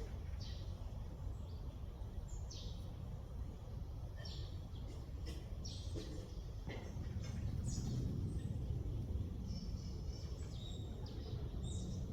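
Wild birds chirping: many short, quick calls and sharp downward notes from several birds, over a steady low background rumble.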